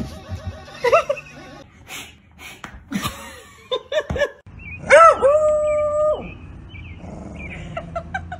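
Dog vocalizing: short yips and whines, then a longer howl about five seconds in that holds on one pitch for about a second before falling away.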